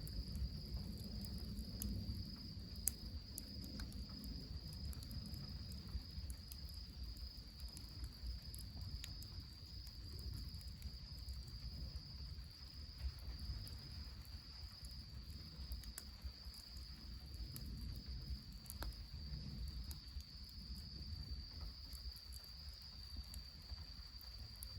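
A cricket trilling steadily at a high pitch over a low rumble, with a few faint crackles from the wood fire.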